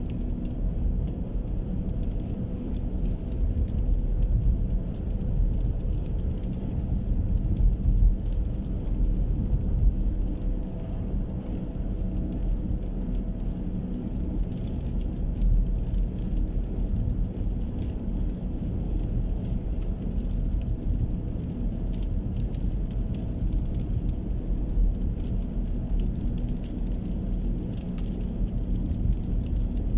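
Rain falling, with a steady low rumble underneath and scattered faint ticks of drops.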